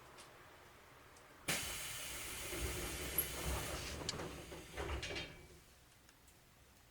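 Passenger doors of an 811 series train closing: a sudden hiss of air starting about a second and a half in and lasting a couple of seconds, then a few thuds as the doors shut.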